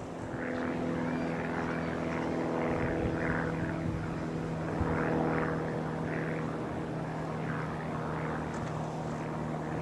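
Steady engine drone holding one pitch, with a repeated rising-and-falling higher sound over it about once a second.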